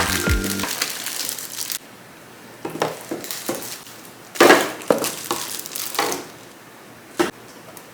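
Plastic packaging crinkling while plastic fridge containers are unboxed and handled. A run of separate knocks and clatters follows, the loudest about four and a half seconds in, with a sharp click near the end.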